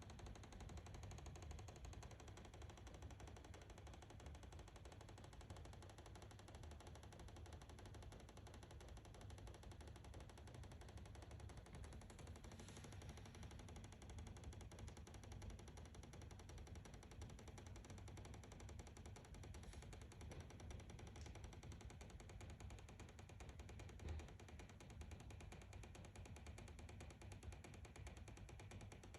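Faint rapid clicking from inside a house wall, with one slightly louder click about 24 seconds in.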